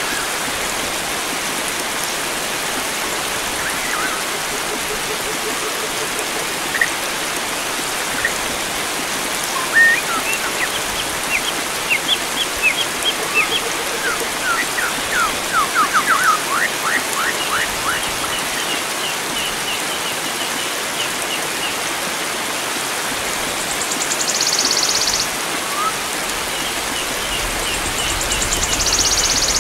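Steady rush of flowing water with wild birds singing over it. Runs of quick chirping notes come through in the middle and again near the end, along with two short high buzzy calls.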